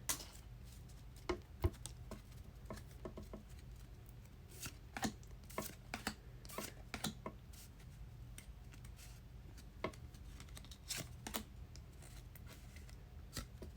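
Trading cards being handled and flipped through: faint, irregular clicks and soft taps of card stock, a few at a time.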